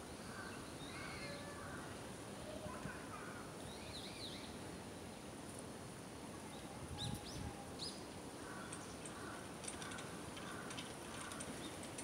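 Birds calling faintly over steady outdoor background noise: scattered short high chirps and lower calls, with a soft low bump about seven seconds in.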